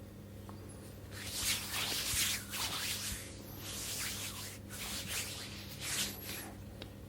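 Hands rubbing in slow strokes, a run of several soft swishes that begins about a second in and fades near the end.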